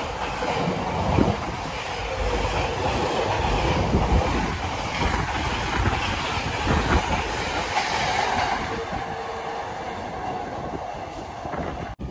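Container wagons of a freight train passing close by, their wheels clattering over the rails with a steady rushing rumble. The sound eases slightly in the last few seconds and then cuts off abruptly.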